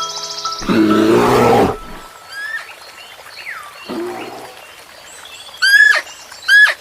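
A loud, rough animal call lasting about a second, then faint bird chirps, and near the end two loud, short bird calls that rise and fall in pitch.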